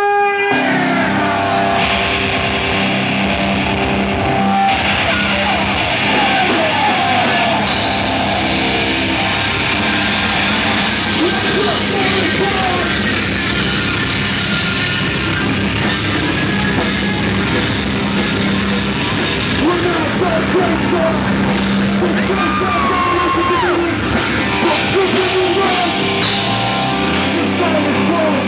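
A heavy metal band playing loud and steady, with distorted guitar, drums and yelled vocals.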